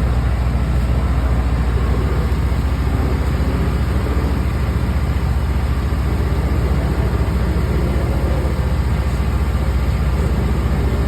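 An engine running steadily at a constant low drone, with no change in speed.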